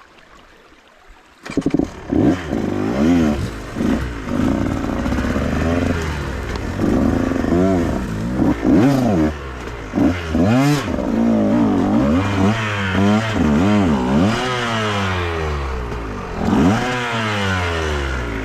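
Dirt bike engine coming in suddenly about a second and a half in, then revving up and down again and again as the bike is ridden over rough ground.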